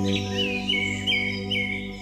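A songbird whistling a quick series of short notes, each dropping in pitch and then holding, over a steady low musical drone like a singing bowl.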